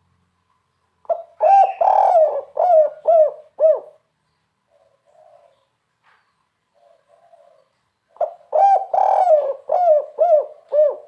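Spotted dove (tekukur) cooing its three-'kuk' call twice: each phrase is a short note, a longer drawn-out coo, then three short 'kuk' notes. The first phrase starts about a second in and the second about eight seconds in, with faint soft coos between them.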